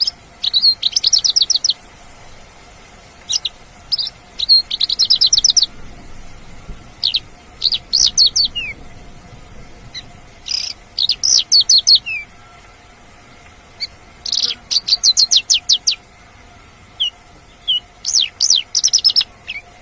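Mongolian lark singing: repeated bursts of fast, high-pitched rattling notes, each burst about a second long, broken up by single sharp notes and short pauses.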